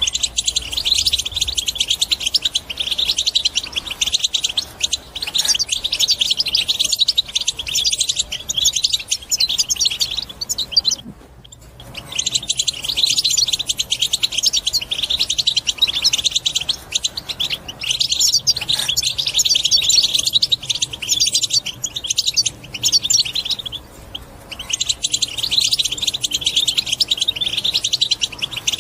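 European goldfinch singing a fast, chattering twitter in long unbroken phrases, with short pauses about 11 seconds in and again near 24 seconds.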